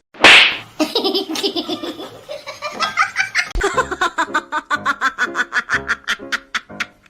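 A person laughing hard: a loud burst of noise just after the start, then a long run of quick, rhythmic laughs that gets faster toward the end, about five a second.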